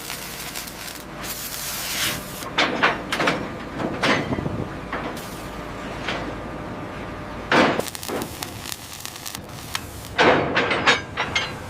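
Metal clanks, knocks and scrapes of heavy steelwork over a steady industrial noise, with louder clanks about two-thirds of the way in and again near the end.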